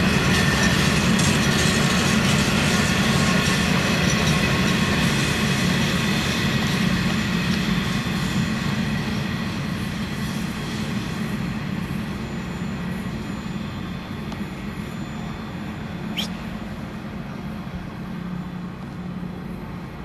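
Empty iron ore wagons rolling past close by: a steady rumble of steel wheels on rail with a high, ringing wheel squeal. The sound fades slowly as the train draws away, and there is one brief high squeak near the end.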